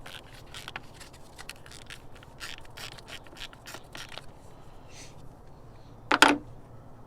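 Ratchet with a 13 mm socket clicking and scraping in short, irregular bursts as it works the nut on the positive battery terminal clamp, with one louder metal clack about six seconds in.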